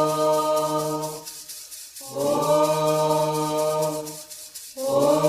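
Candomblé chant (reza) to the orixá Obá: a voice holds long sung notes, three of them with short breaks between, with a steady lower tone beneath.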